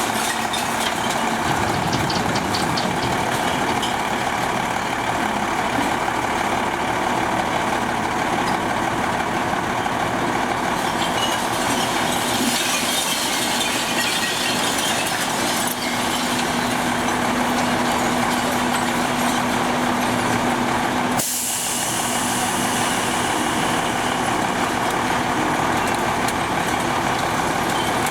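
Recycle truck's engine running steadily, with a steady low hum added for several seconds in the second half and an abrupt change in the sound about three quarters of the way through.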